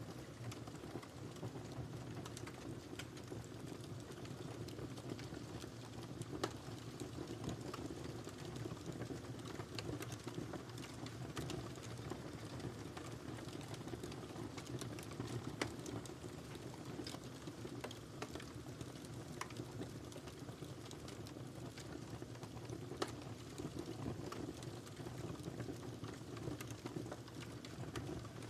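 Wood fire burning in a fireplace: a steady low roar of flames with frequent sharp crackles and pops, a few louder snaps among them.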